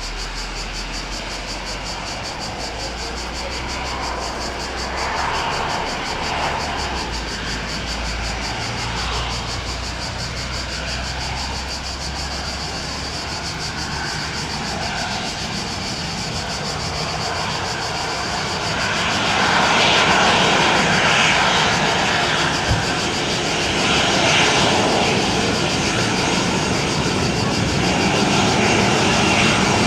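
Boeing 737-700 BBJ's CFM56 jet engines running, a steady roar that swells and grows louder about two-thirds of the way through.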